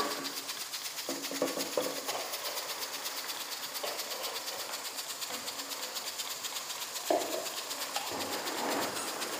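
Chopped onions frying in hot oil in a wok, a steady crackling sizzle, with a few brief louder sounds about a second in and again about seven seconds in.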